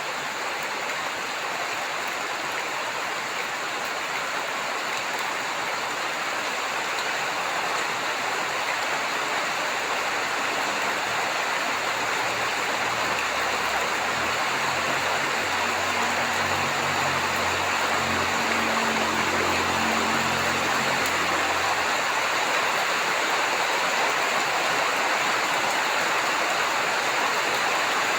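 Heavy rain falling steadily. From about a third of the way in, a low rolling rumble of thunder builds and fades away before the last quarter.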